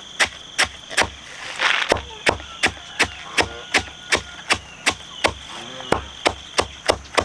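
Rapid, evenly paced chopping strikes, nearly three a second, with a steady high-pitched whine behind them.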